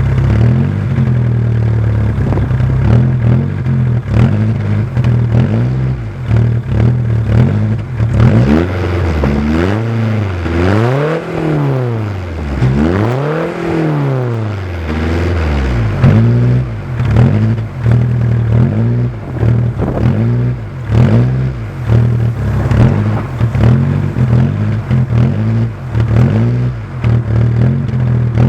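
Seat Ibiza 1.9 SDI four-cylinder diesel engine running through a stainless straight-pipe exhaust with no silencer. It idles, is revved up and down twice about a third of the way in, then is given a quick series of short throttle blips.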